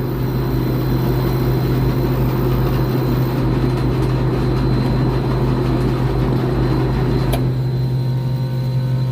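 Three-phase AC condenser unit running: a steady electrical hum under the rushing, rough noise of a failing condenser fan motor that is drawing over its rated amps. A sharp click comes about seven seconds in as a lead is pulled off the contactor. After it the fan noise drops and a steadier hum with thin tones remains.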